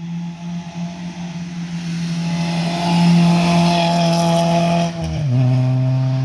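Rally car engine running at high revs as the car drives past, its steady note dropping sharply in pitch a little after five seconds in.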